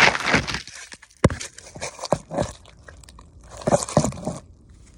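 Crunchy scraping and rustling in two bursts, with a few sharp knocks between them: dirt being worked and brushed off a freshly dug relic by hand.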